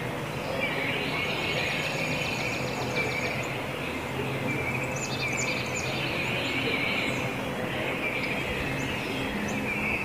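Wild birds singing and chirping, in repeated short phrases of song, over a steady low hum of outdoor background noise.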